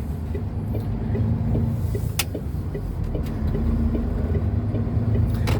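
Truck's diesel engine running under the cab as it pulls out, a steady low rumble, with a single sharp click about two seconds in.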